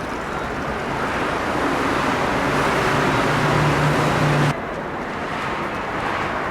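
Road traffic noise: a motor vehicle passing close, its tyre and engine noise swelling with a low engine hum, then breaking off suddenly about four and a half seconds in, leaving quieter road noise.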